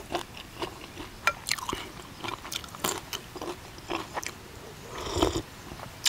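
A man chewing mouthfuls of crispy-skin duck larb, with frequent irregular crisp crunches and wet mouth clicks.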